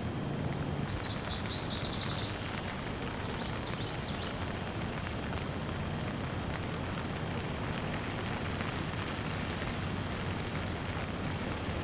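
Steady rain with a bird's rapid high trill about a second in, and a fainter trill a couple of seconds later.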